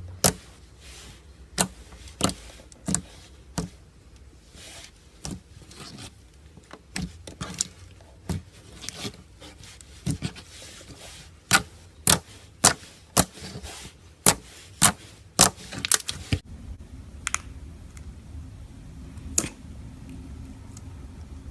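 Slime being squished and poked by hand, making sharp clicks and pops from trapped air. The pops come irregularly at first, then quicken to about two a second, and are sparser in the last few seconds over a low steady hum.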